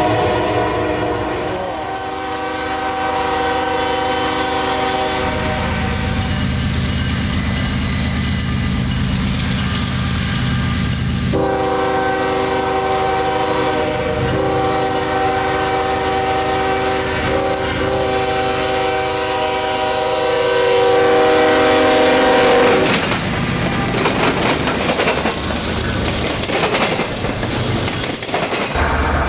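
Diesel locomotive air horn sounding a chord of several tones in two long blasts, the second longer, as a train passes. After the horn stops the wheels rattle over the rail joints.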